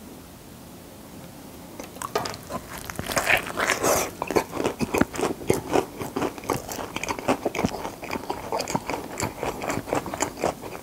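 Close-up crunching and chewing of a mouthful of crispy fried-chicken burger, a dense run of crackly crunches that starts about two seconds in.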